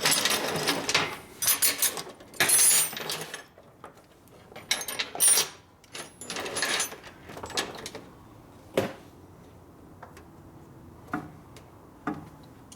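Metal hand tools and parts clattering and clinking as they are gathered up and set down, busy through the first half, then one sharp knock and a few faint clicks.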